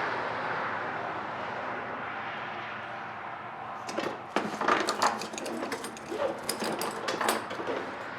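Steady background hiss, then from about four seconds in a quick run of small metallic clicks and rattles as the mower's throttle cable and its fittings are handled.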